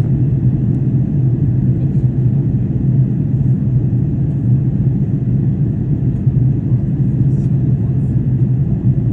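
Steady, loud, low drone of an aircraft in flight, with no change in pitch or level.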